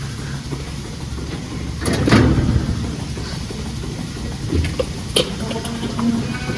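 Goat milking parlour machinery running with a steady low hum, with a louder clattering burst about two seconds in and sharp metallic clicks around five seconds.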